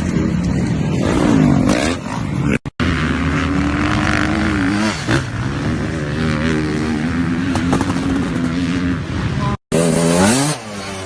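Dirt bike engines running and revving, the pitch rising and falling, with two abrupt breaks where the sound cuts out for a moment.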